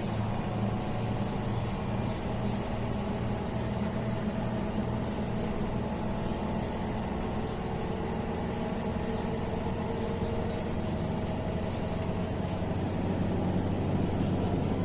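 MAN A21 city bus heard from inside while under way: a steady engine drone with a faint high whine that slowly falls in pitch, and scattered small rattles and clicks.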